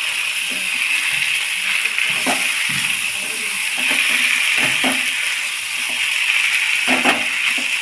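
Prawns and spice masala frying in a nonstick kadai with a steady sizzle. A wooden spatula stirs the mixture, knocking against the pan a few times.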